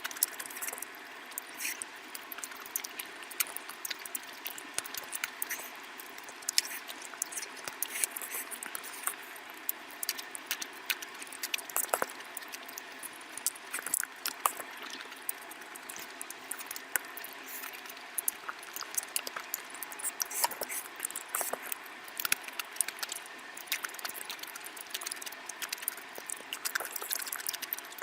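Close-miked eating of curry: wet chewing and squishing with many small, irregular clicks and smacks throughout.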